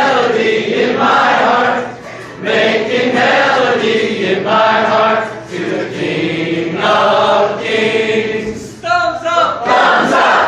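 A group of people singing together in unison phrases, with short breaks between lines; near the end the voices turn rougher and more shouted.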